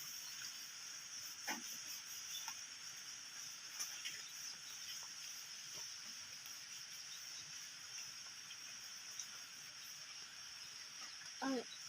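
Faint, steady high-pitched chirring of insects, with scattered small soft clicks, and a short voiced sound near the end.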